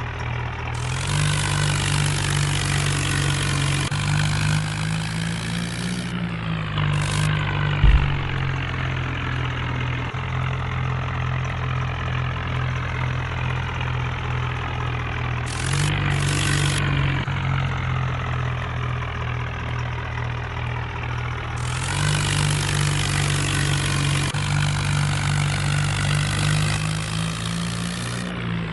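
Swaraj 963 tractor's diesel engine running at a steady idle, its pitch rising briefly twice. A single sharp thump comes about eight seconds in, and a hiss comes and goes.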